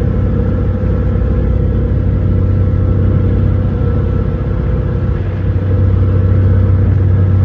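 Boat engine running steadily with a deep hum, getting louder about five and a half seconds in.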